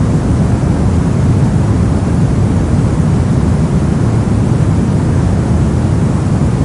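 Brown noise: a steady, even rumbling hiss with most of its strength in the deep bass, random noise filtered to fall away in the highs.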